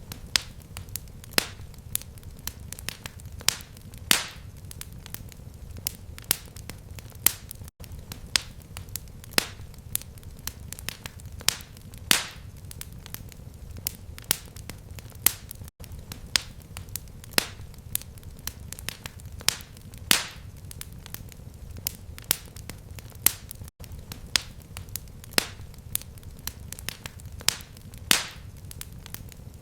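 Fireplace fire crackling: irregular sharp pops and snaps, a few each second, over a steady low rumble. There is a very short dropout about every eight seconds.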